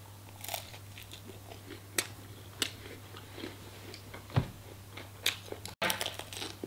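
A person biting and chewing a waffle close to the microphone: irregular soft mouth clicks and smacks, with a few sharper clicks.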